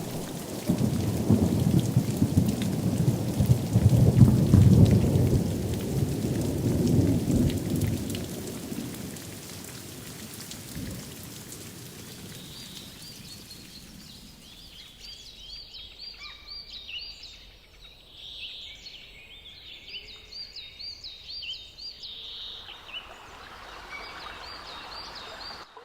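Thunder rumbling over steady rain, loudest in the first few seconds and dying away by about a third of the way in. The rain thins, and from about halfway high, quick, repeated bird chirps come in.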